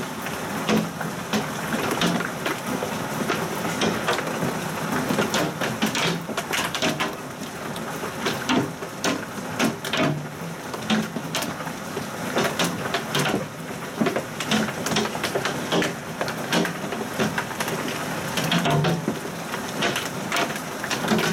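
Heavy downpour with hail during a thunderstorm. A steady roar of rain runs throughout, with many sharp, irregular hits of hailstones striking surfaces.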